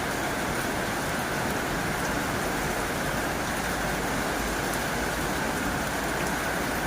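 Heavy rain drumming steadily on a tin roof: a dense, even hiss of drops with no let-up.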